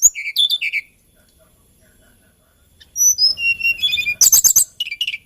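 Hill blue flycatcher (Cyornis banyumas) singing two phrases of high, sliding whistled notes about two seconds apart, the second ending in a quick run of notes.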